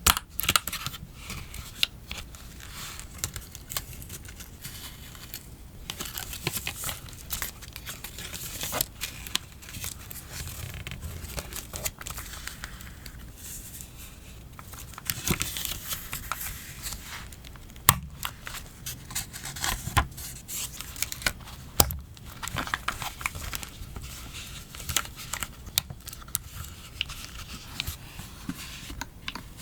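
Close-up paper-crafting sounds: stickers peeling off their backing and paper sheets rustling and crinkling, with many scattered sharp clicks and taps.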